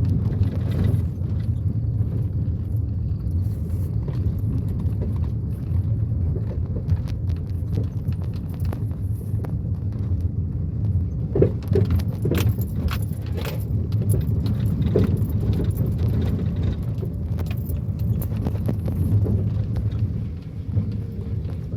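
Car driving, heard from inside the cabin: a steady low rumble of engine and road noise, with scattered rattles and clicks that come thickest around the middle.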